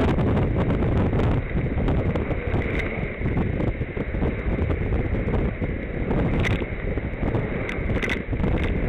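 Wind buffeting the microphone of a camera on a moving bicycle: a loud, steady low rumble, with a few sharp clicks near the end.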